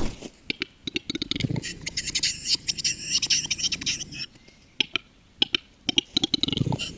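Male western capercaillie's lekking display song. It is a series of sharp clicks running into a rhythmic hissing, scraping phrase about two seconds in. After a brief pause, the clicks start again near the end.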